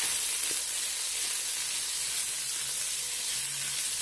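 Chicken, onion and squid sizzling in hot oil in a nonstick wok, a steady even hiss.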